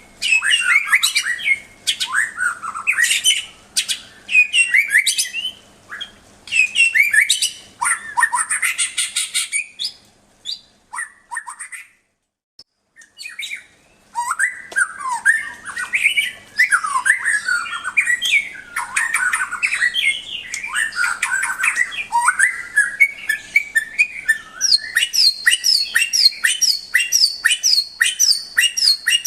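White-rumped shama (murai batu) singing loud, varied whistled phrases that glide up and down, with a pause of a few seconds midway. Near the end it repeats a short high note about twice a second alongside the lower phrases.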